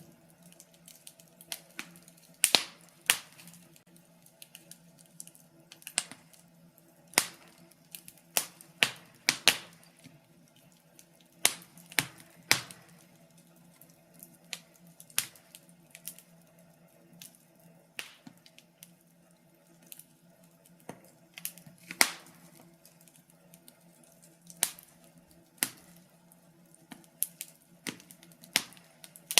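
Burning wood logs in a fireplace crackling, with irregular sharp pops and snaps of varying loudness, a few much louder than the rest.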